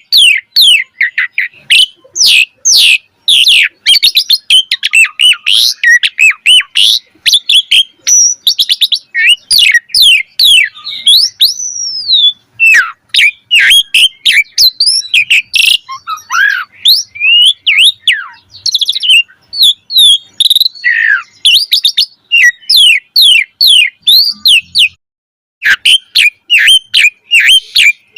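Asian pied starling (jalak suren) singing continuously in full voice: a rapid, varied stream of whistles, rising and falling sweeps, chirps and clicks, broken by one brief pause near the end.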